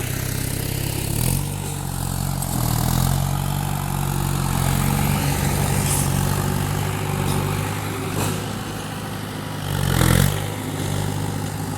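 Diesel engine of a Sumitomo SH120 excavator running steadily while digging, its revs swelling briefly a few times as the hydraulics take load.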